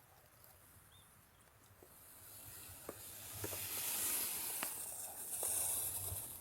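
Cooking sizzle: a high hiss that swells about two seconds in and stays loud almost to the end, with a few faint clicks.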